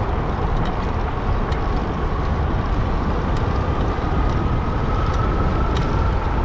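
Riding noise of an electric bike in motion: steady wind rumble on the microphone, with a thin, steady motor whine that creeps slightly up in pitch and scattered light ticks.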